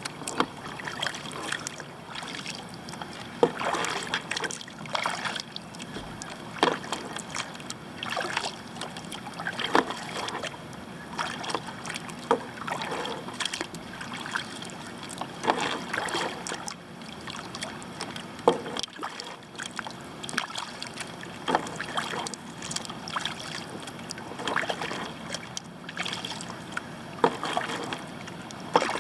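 Kayak paddle strokes: the blades splash and drip into the water about once a second, over a steady wash of water.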